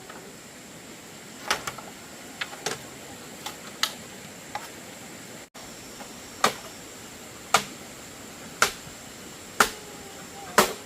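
Sharp tool strikes on bamboo: a few scattered knocks, then, after a brief break, five even blows about once a second.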